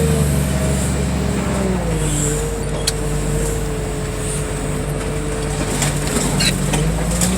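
Engine of heavy equipment running at a yard, its speed dropping about two seconds in, holding steady, then rising again near the end, with a single sharp click near the middle.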